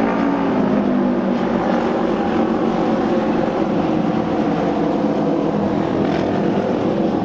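Auto Race motorcycles running at speed around the oval track, their engines making a loud, steady drone with several engine pitches layered together.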